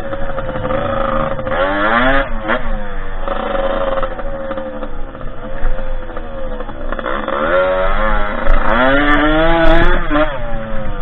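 Derbi 50cc two-stroke engine on a dirt bike being ridden, revving up and down. Its pitch climbs and drops several times, with a long climb from about seven seconds in and a sharp drop near the end.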